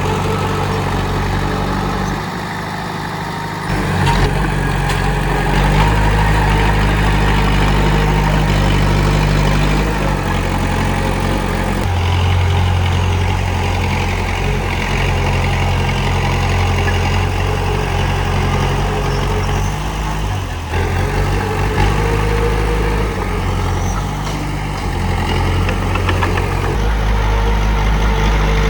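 Komatsu D31P bulldozer's diesel engine running continuously. Its note steps up and down in pitch and loudness several times, dipping quieter for a couple of seconds early on before rising again.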